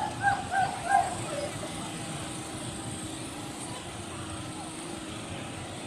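Busy outdoor gathering of parked motorcycles and people: a steady background of engine and traffic hum with distant voices. About five short, high calls stand out in the first second and a half.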